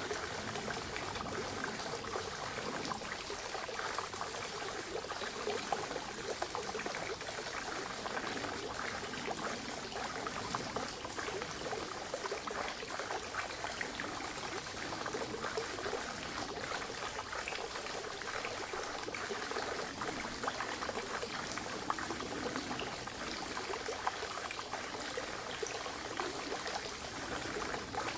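Spring water trickling and splashing steadily, a continuous patter of small splashes.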